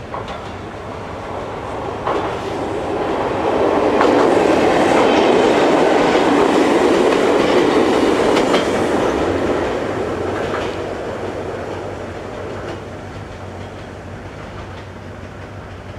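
Ichibata Electric Railway 2100 series electric train passing close by, its wheels clacking over rail joints. The rumble builds, is loudest about four to ten seconds in, then fades as the train runs off.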